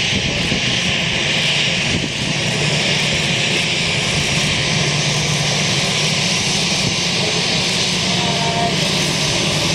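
Jet airliner's engines running at high power as it moves along a wet runway, a loud, steady rushing jet noise.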